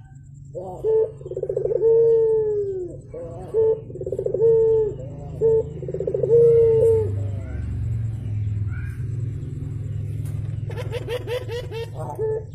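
Puter dove cooing repeatedly: a run of low, falling coos through the first half, then a quick burst of clicks with short coos near the end, over a steady low hum.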